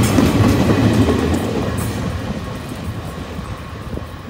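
Freight train's loaded flatcars rolling past close by, wheels rumbling on the rails, the sound fading steadily as the end of the train passes and moves away.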